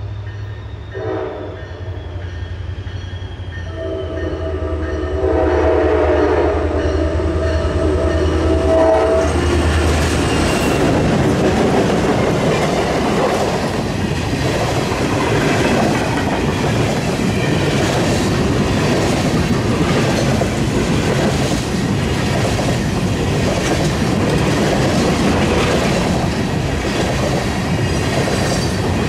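Diesel-hauled freight train approaching and passing close by. First the locomotive's horn sounds, with brief notes and then a long blast of about five seconds over the low engine hum. From about ten seconds in comes the steady rumble and clickety-clack of loaded tank cars rolling over the rails.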